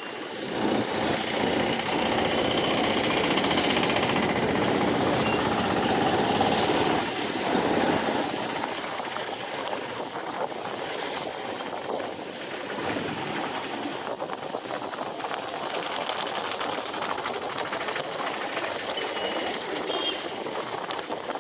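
Motorcycle engine running on the move, with road and wind noise; louder for the first eight seconds or so, then steadier and a little quieter.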